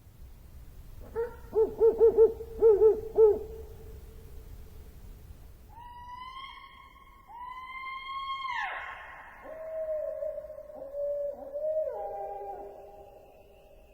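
An animal calling: a quick run of short, wavering pitched calls, then several longer calls that each end in a downward drop, followed by shorter calls.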